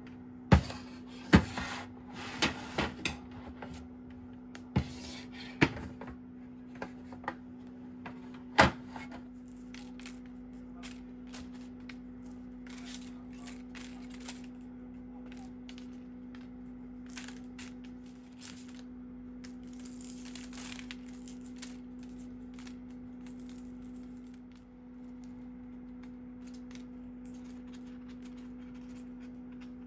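A running appliance hums steadily throughout. Over it come a series of sharp clicks and knocks from things being handled, mostly in the first nine seconds, the loudest about a second and a half in and near nine seconds.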